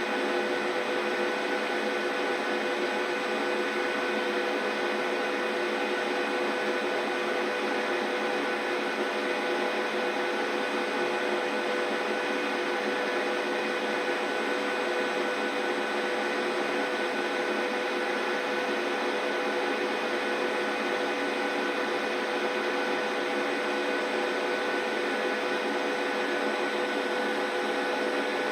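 Large 39 kg commercial washing machine running, a steady motor hum with a few fixed whining tones that holds level and pitch without change.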